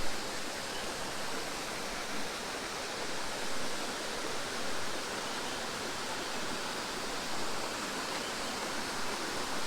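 Steady rush of running water from a stream and small waterfall.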